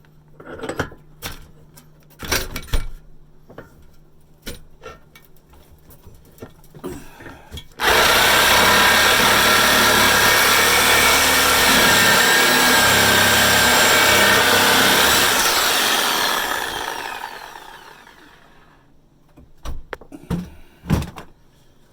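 Scattered knocks and clinks of metal being handled, then about eight seconds in an electric power tool starts abruptly and runs loud and steady for about seven seconds, cutting into a rusted steel exhaust pipe. It then winds down with a falling whine over two or three seconds.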